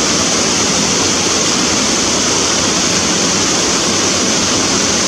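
Mountain waterfall crashing steadily: a loud, unbroken rush of falling water with a strong hiss.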